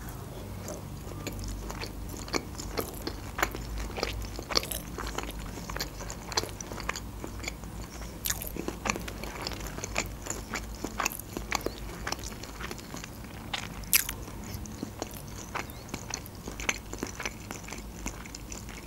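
Close-miked chewing of a mouthful of spicy shrimp sushi roll: irregular small wet mouth clicks and soft crunches, with one louder click about two-thirds of the way through.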